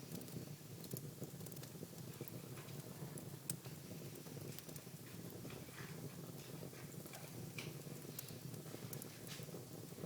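Fire burning in a fireplace: a steady low rush of flames with scattered, irregular crackles and pops.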